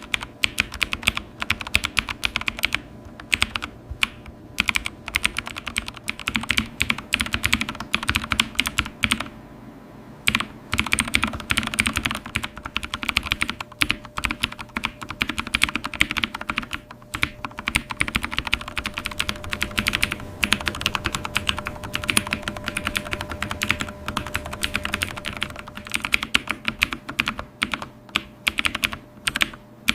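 Computer keyboard being typed on steadily: a dense run of fast key clicks, with a brief pause about nine seconds in.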